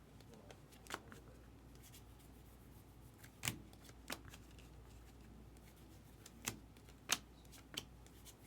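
Trading cards being handled and flipped through one by one, faint, with about six short card snaps spread through.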